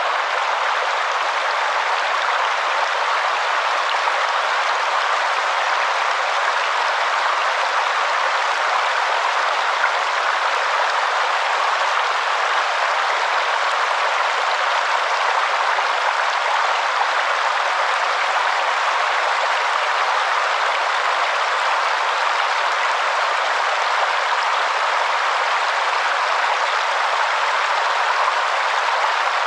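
Waterfall: a steady, unbroken rush of falling water, even throughout, with no deep rumble.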